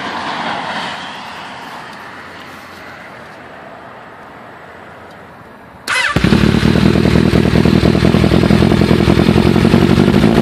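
A fading hiss, then about six seconds in the Kawasaki ZRX1100's inline-four is started and catches, running loud with a fast pulsing beat through an open Voodoo full exhaust.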